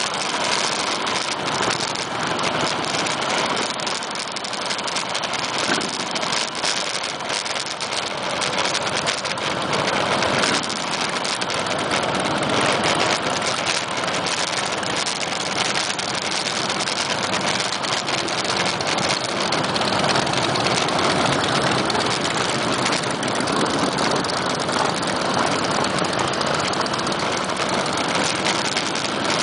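Several cruiser motorcycle engines running at walking pace in a slow procession, a steady mixed engine sound with no single event standing out.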